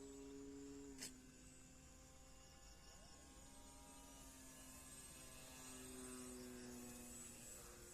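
Faint, steady hum of a model airplane's motor in flight, its pitch sagging slowly in the second half. A single sharp click about a second in.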